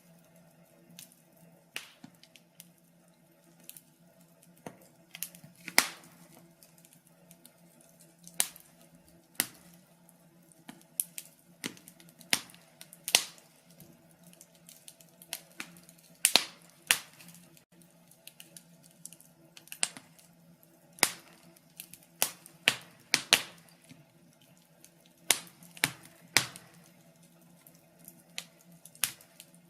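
Wood fire crackling in a fireplace: irregular sharp pops and snaps of varying loudness, sometimes several close together, over a faint steady low hum.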